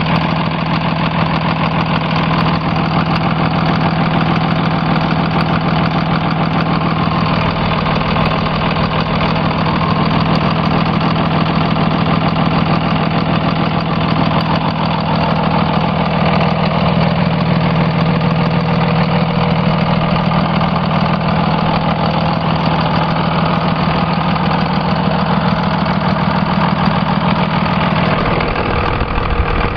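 5.9 L Cummins inline-six turbo diesel in a 2002 Dodge Ram 2500 idling steadily through a 4-inch performance exhaust. The tone shifts near the end.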